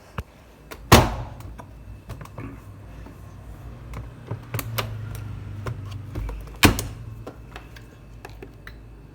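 Samsung washing machine running with a low hum. Two loud thuds ring on briefly, one about a second in and another near seven seconds, among scattered small clicks.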